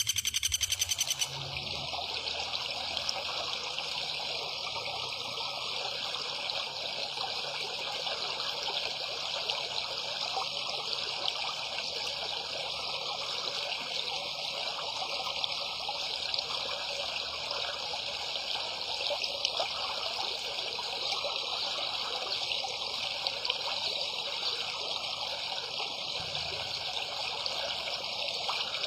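Steady, even rushing noise of running water. A bird's call stops about a second in.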